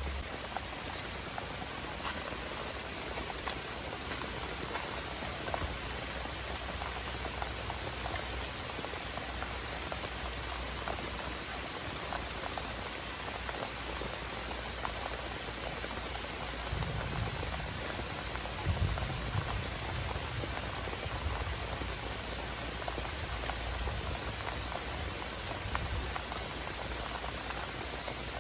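Heavy rain falling steadily, with many small drop ticks. A few low thuds come about two-thirds of the way through.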